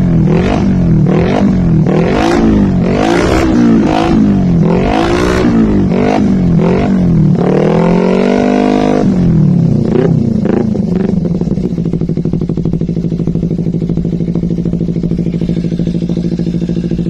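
Kawasaki Ninja 250 FI parallel-twin engine revved through an aftermarket Akrapovic GP-style carbon slip-on exhaust: a rapid series of throttle blips, one longer rev about eight seconds in, then a few small blips before it settles to a steady idle for the last five seconds.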